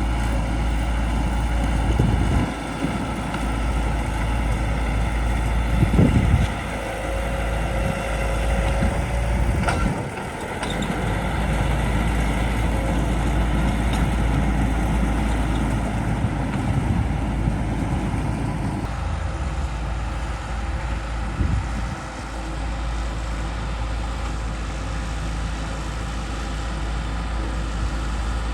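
Bulldozer's diesel engine running under load, with a few brief surges as it works.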